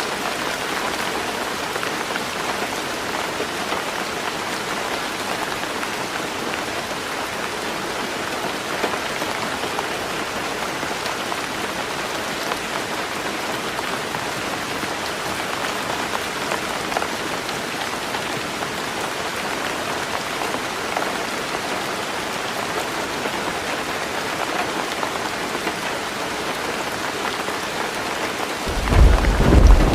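Heavy rain drumming steadily on a tin roof. Right at the end a low rumble of thunder rises in.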